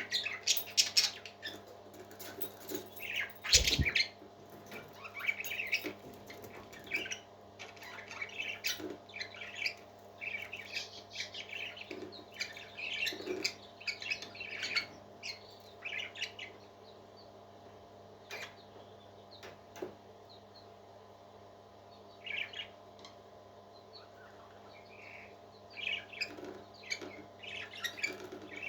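Parrot chirping and squawking in many short, irregular calls, busiest in the first half, with a single knock just before four seconds in.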